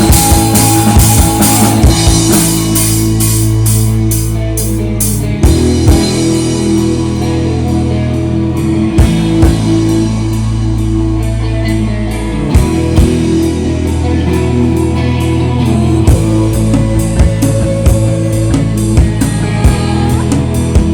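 Rock band playing live, an instrumental passage with no singing: a drum kit keeps time over long held bass notes, with cymbals crashing thickly for the first five seconds or so.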